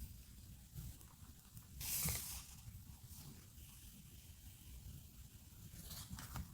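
Paper crafting materials being handled: soft paper rustles and small taps, with one louder brushing rustle about two seconds in.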